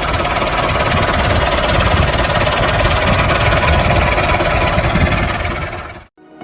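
Handmade miniature tractor's small motor running steadily under load with a fast, fine rattle, cutting off suddenly near the end.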